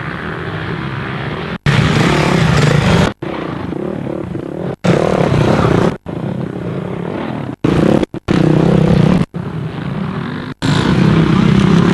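Enduro motorcycle engine running under a rider's helmet camera, switching between louder stretches on the throttle and quieter ones. The sound cuts out abruptly to silence for a split second about nine times.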